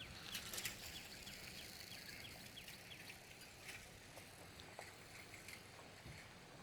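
Faint outdoor ambience with a bird calling in a quick run of short, falling chirps, about three a second, that fades out after a couple of seconds; scattered light clicks.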